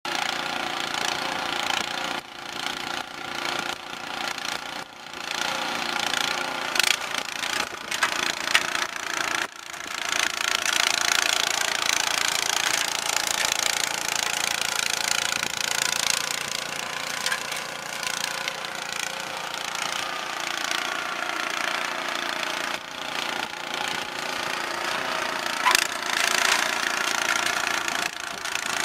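MTD snowblower's small engine running steadily while clearing snow, with a few brief dips in level in the first ten seconds.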